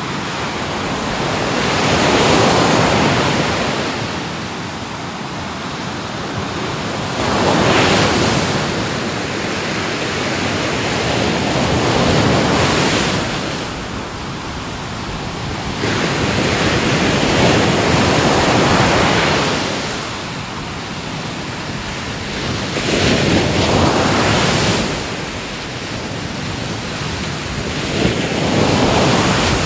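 Ocean waves breaking and washing in, swelling and easing every four to six seconds, with some wind noise on the microphone.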